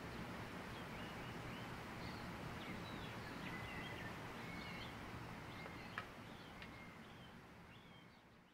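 Faint outdoor ambience: a steady low hiss and rumble with small birds chirping intermittently. A single sharp click sounds about six seconds in, and the sound fades out near the end.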